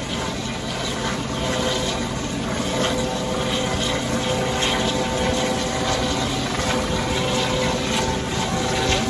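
Helicopter running steadily nearby, a constant rushing noise with a few steady whining tones.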